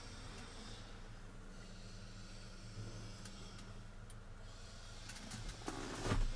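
A steady low hum with a few faint clicks, and a short, louder burst of noise near the end.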